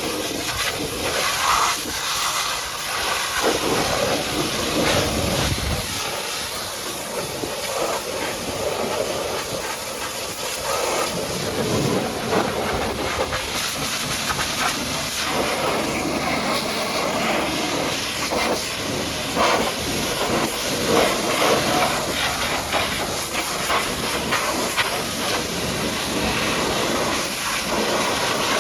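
High-pressure water jet from a pressure washer spraying a truck: a steady hiss of spray whose tone keeps shifting as the jet moves across surfaces.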